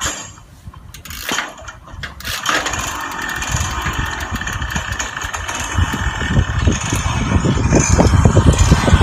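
Yamaha RX-King's two-stroke single-cylinder engine through a Boban C33 aftermarket exhaust, starting up a couple of seconds in and running, growing louder toward the end.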